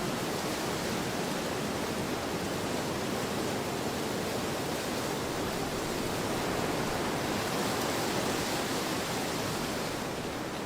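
Wind blowing across an open field: a steady rushing noise that swells a little about eight seconds in, then eases near the end.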